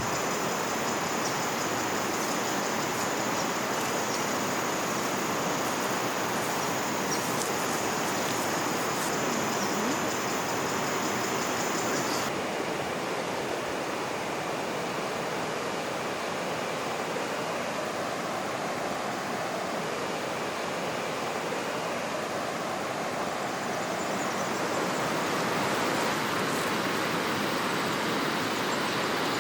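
River water running, a steady rushing sound. A high steady buzz sits over it for the first part and cuts off suddenly about twelve seconds in.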